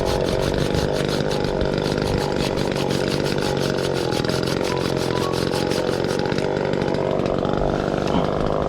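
Chainsaw running steadily at high revs as it cuts through a black maple limb.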